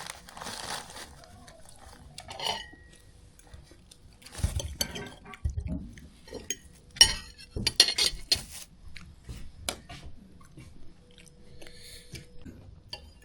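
Cutlery and dishes clinking and knocking at a table during a meal, in scattered short clicks that bunch together near the middle.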